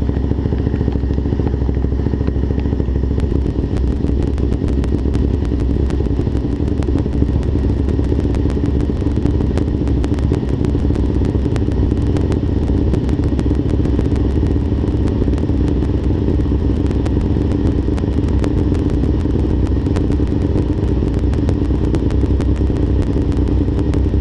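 Suzuki LTZ400 quad's single-cylinder four-stroke engine, fitted with a 440 big bore kit, idling steadily while it warms up after a cold start.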